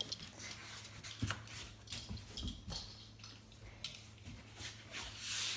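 Scattered light clicks and taps of die-cast toy cars being handled and set on a toy car track, over a faint steady hum.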